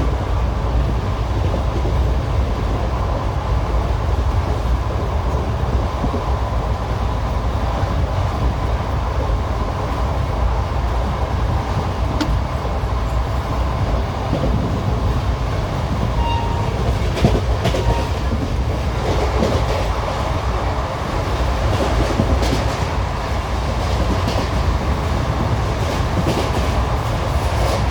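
ICF railway passenger coach running along the track: a steady heavy rumble with the clickety-clack of its wheels over the rails, and sharper clicks in the second half.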